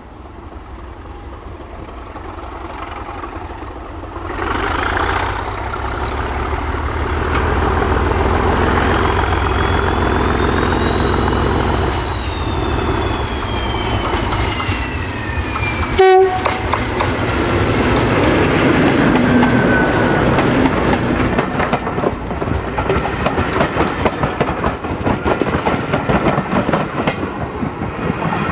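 Class 37 diesel-electric locomotive working, its engine running with a heavy low rumble that grows louder a few seconds in. A whistle rises and then slowly falls in pitch, with wheel-on-rail clatter. A single brief, loud blip comes about halfway through.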